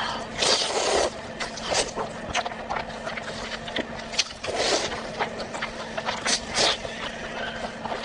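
Close-miked eating: irregular wet chewing and smacking with sharp mouth clicks, louder in a few short bursts. A faint steady hum runs underneath.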